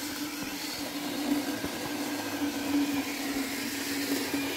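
Chainsaw running steadily, holding one constant engine note.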